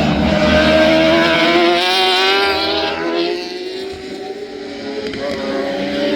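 Racing superbikes' engines at high revs as the bikes pass on track, the pitch rising and falling with several machines heard at once. The sound eases about four seconds in, then builds again near the end.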